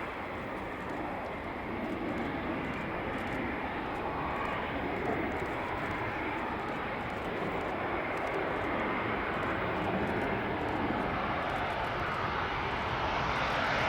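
Distant jet noise of an RAF Tornado GR4's twin RB199 turbofan engines on approach to land, a steady rushing sound that grows slowly louder as the aircraft comes nearer.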